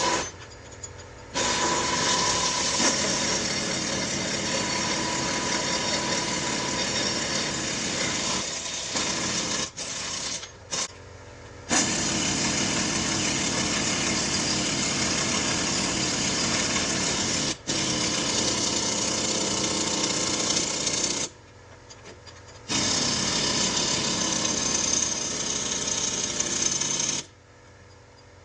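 Air-powered shop tool running hard in long bursts of several seconds, with brief stops between them and a couple of short blips about ten seconds in.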